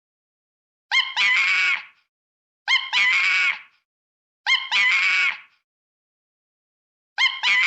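The same animal call repeated four times at even intervals, the last cut off at the end. Each is a few quick rising yelps followed by a harsh, pitched screech lasting under a second.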